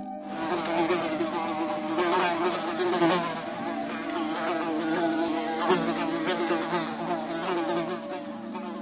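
An insect buzzing close by, the buzz wavering up and down in pitch.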